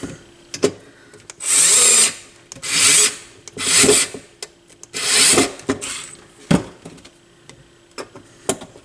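Battery-powered screwdriver whirring in four short bursts as screws are driven out, with a few clicks of handling between them. Its owner suspects the battery may be getting weak.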